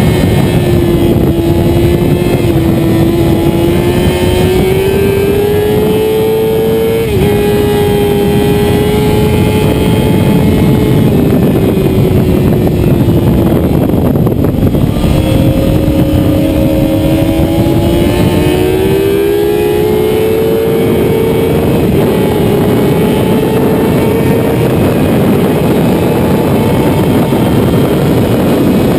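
Motorcycle engine running hard around a race track. The revs climb, drop sharply with a gear change about seven seconds in, fall away midway as the rider eases off, then climb again through the gears. A steady rush of wind noise runs underneath.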